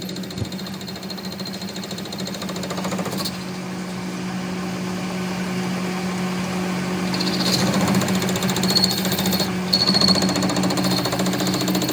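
A workshop machine running with a steady low hum and a fast, even rattle, growing gradually louder. A thin high whine joins it about seven seconds in.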